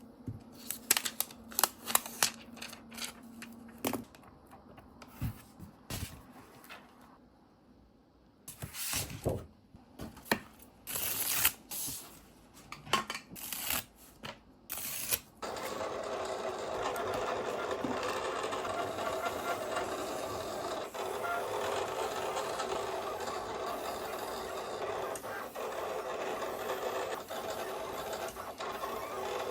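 Scattered clicks and handling taps, then about halfway through a small machine starts up and runs steadily.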